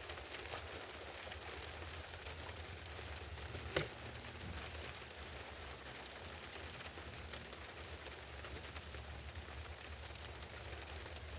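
Steady patter of heavy rain, with a single sharp knock about four seconds in.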